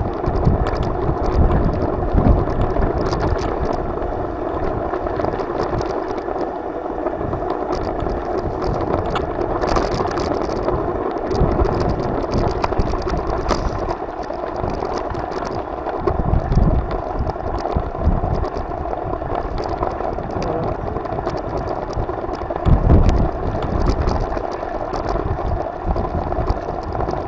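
Riding noise on a bike ride: a steady rush with wind buffeting the microphone in low gusts, and scattered rattles and clicks.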